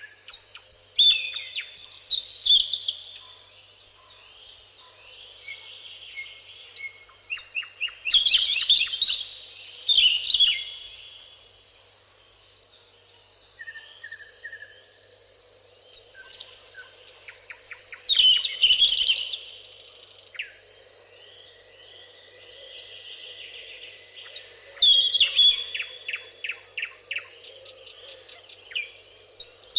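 Songbirds singing in loud bursts of rapid, trilling phrases every several seconds, with quieter chirps in between. Underneath runs a steady, high-pitched insect trill.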